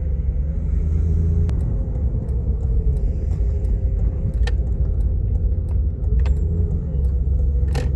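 Steady low rumble of a vehicle's engine and road noise heard from inside the cabin, with a few faint ticks.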